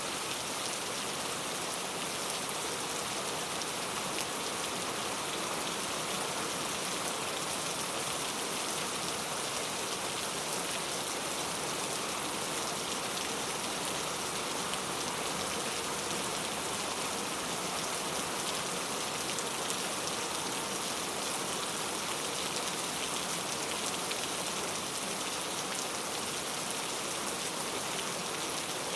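Steady rain falling: an even hiss of many small drops, unchanging in strength throughout.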